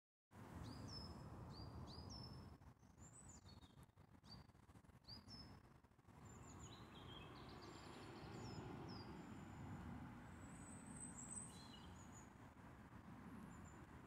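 Faint bird calls: repeated short, high chirps that sweep upward in the first few seconds, then a looser mix of varied chirps and twitters, over a steady low background rumble.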